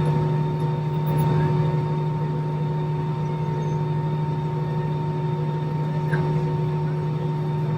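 Jet airliner engines running steadily at idle: a constant low hum with a few held, unchanging tones and no rise in pitch.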